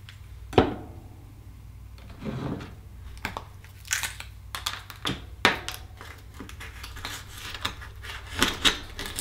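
Akoya oyster shells being handled and pried open with a knife: a string of sharp clicks and knocks, with short scrapes of the blade against shell.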